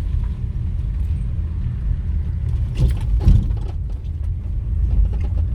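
Low, steady rumble of a vehicle on the move, with a short knock or two about three seconds in.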